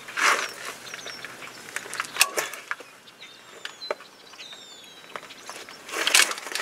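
Scattered metal clicks and knocks of hydraulic hose quick-couplers being handled and pushed onto a tractor's fittings. There are two short bursts of hiss, one just after the start and one near the end. Small birds chirp now and then.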